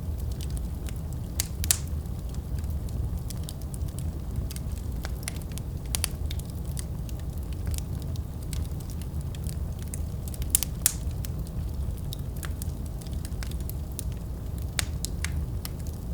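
Wood fire burning in a fireplace, with a steady low rumble and frequent irregular crackles. Louder pops come now and then.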